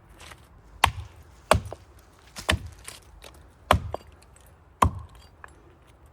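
Axe chopping into the trunk of a big maple tree: five hard strikes, about one a second, some with a short ring.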